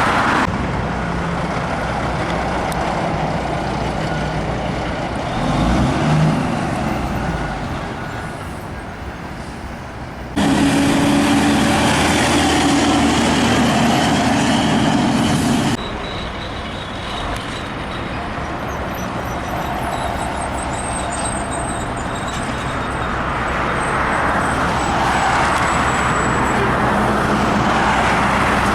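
Highway traffic with big rigs passing: truck engines and tyre noise rising and falling, loudest for about five seconds in the middle, with sudden jumps in level where the recording is cut.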